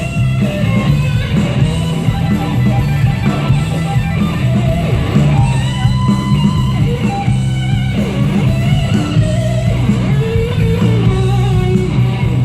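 Live rock band playing an instrumental passage, with guitar to the fore over a steady, heavy bass.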